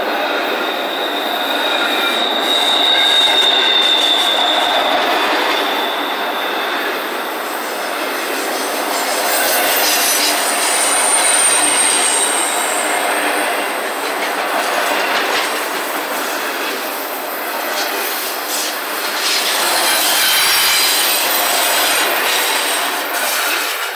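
Double-stack intermodal freight cars rolling past at speed: a loud, steady rush of steel wheels on rail. A high wheel squeal rings out a few seconds in, and a higher one comes around ten seconds in.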